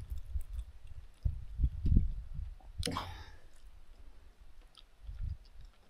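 A person chewing a mouthful of rice with soft wet mouth clicks, and a sharper smack about three seconds in.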